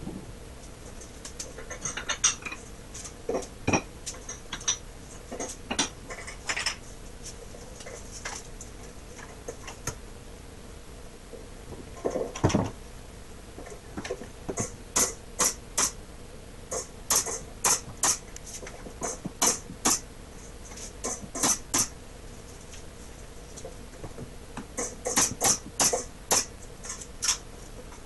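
Pin nailer firing repeatedly to tack glued loose boards on a wooden chest: short, sharp clicks, scattered at first and then in quick runs of several a second, with one duller knock about twelve seconds in.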